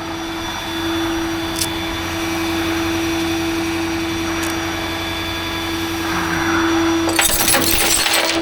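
Tow truck running, with a steady mechanical whine. About seven seconds in, a rattling and clanking starts.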